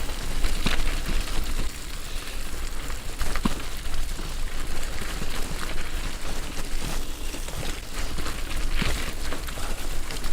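Bicycle tyres rolling over a wet, muddy trail, a steady gritty noise scattered with small crackles and spatters, over a low rumble.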